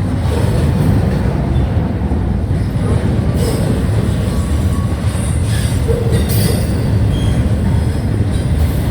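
Union Pacific double-stack intermodal train rolling past: a steady loud rumble of cars on the rails, with brief high wheel squeals now and then in the middle.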